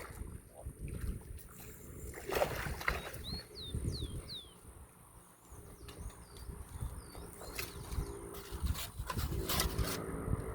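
Low, uneven rumble and a few knocks from the microphone being handled. About three seconds in, a bird calls a quick run of short downward whistles.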